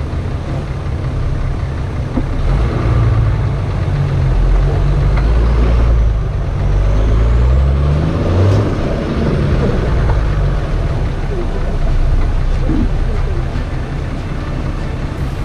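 Nissan Patrol 4x4's engine pulling under load up a steep rocky climb. The revs rise for a few seconds about halfway through, then fall away as it crests.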